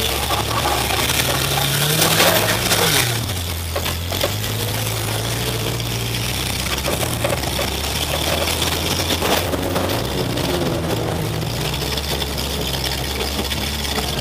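A demolition derby car's engine running and revving, heard from inside the cab, with clattering and knocks from the battered body. The engine pitch rises about two seconds in, the loudest moment, and rises again a few seconds before the end.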